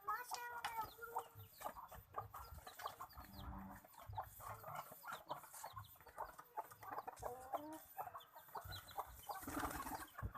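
Domestic birds at feed: many short pecking taps and clicks, mixed with short clucking calls.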